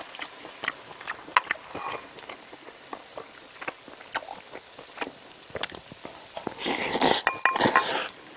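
Close-miked eating: wet chewing and mouth clicks from spicy stir-fried octopus fried rice, a scatter of short sharp smacks. Near the end a louder, rougher stretch of about a second and a half.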